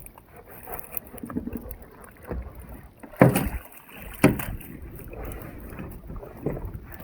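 Knocks and rattles of gear being handled aboard a small fishing boat, with water sounds around the hull; two sharp thuds stand out, about three and four seconds in.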